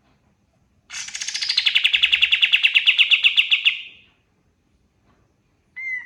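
Kapas tembak singing a loud, rapid rattling trill of about ten notes a second for roughly three seconds, sliding down in pitch at first and then holding steady. A short whistled note follows near the end.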